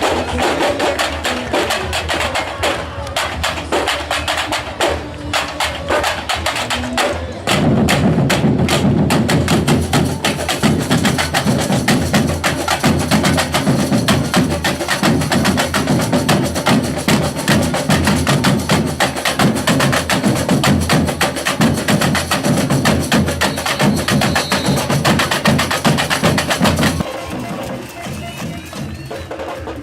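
Batucada samba percussion ensemble playing a fast, dense rhythm of high clicking and snare-like drums. Heavy bass drums come in about seven seconds in and make it much louder. Near the end the drumming drops back to a quieter, thinner sound.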